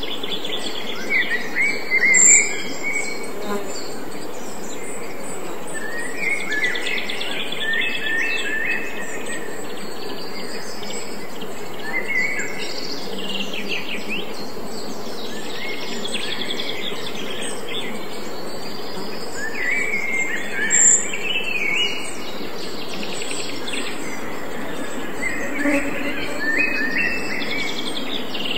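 Songbirds singing in short phrases every few seconds over a steady background hiss.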